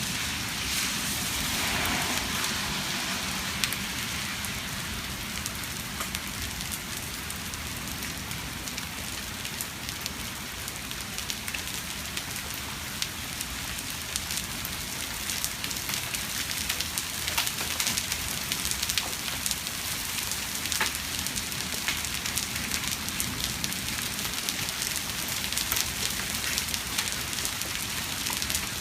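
Hail falling with rain: a steady hiss of rain with many scattered sharp clicks of hailstones striking hard surfaces.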